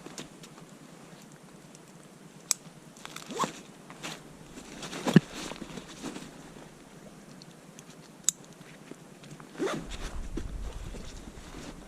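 Scattered crunching and rustling with a few sharp clicks, then a low wind rumble on the microphone from about ten seconds in.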